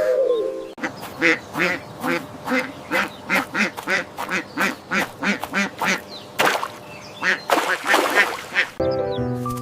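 A duck quacking over and over in a quick run of short quacks, about two or three a second. Bright music with steady notes comes in near the end.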